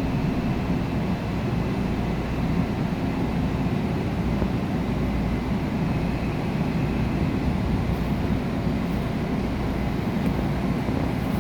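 Busan Metro Line 1 subway train, a new Woojin-built set, running between stations: a steady rumble of wheels on the rails, heard from inside the car.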